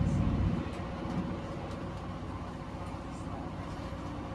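Steady low hum and rumble inside a Class 220 Voyager carriage from its underfloor diesel engine, with a brief louder swell in the first half second.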